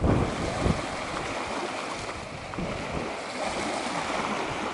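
Wind buffeting the microphone, with a low rumbling gust in the first second, over a steady rushing background of wind and water.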